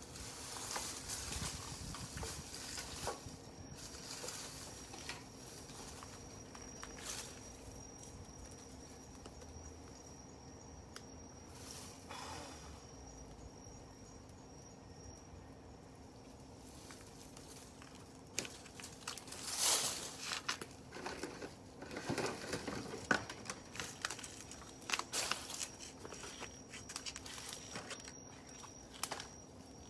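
Wood fire crackling, with scattered sharp pops and snaps that come more often in the last third.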